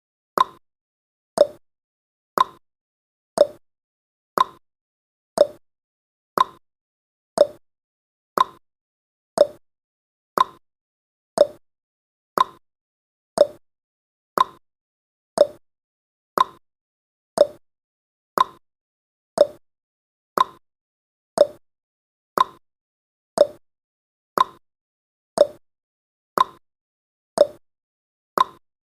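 Clock-tick sound effect of a countdown timer: short, sharp ticks evenly spaced about one per second, each marking one second counted down.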